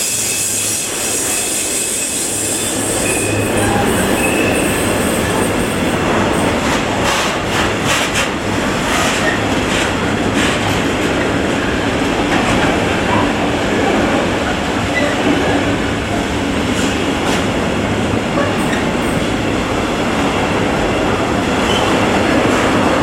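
Freight train of container and tank-container flat wagons rolling steadily past, a continuous rumble of steel wheels on rail. A run of clicks over rail joints comes from about six to ten seconds in, with a few brief faint wheel squeals early on.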